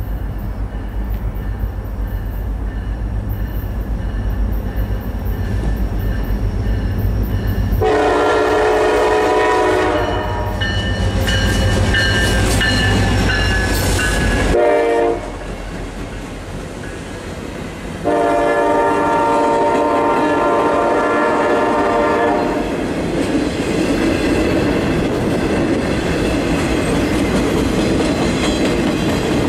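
CSX diesel locomotives approaching with a low rumble and sounding their horn in several blasts, the longest falling in pitch as the lead unit passes. Then the train's cars roll by with a steady clatter of wheels on the rails.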